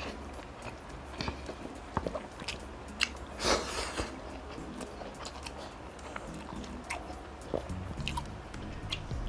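Close-miked chewing of a mouthful of rice: scattered wet mouth clicks and smacks, with a louder noisy stretch a little over three seconds in.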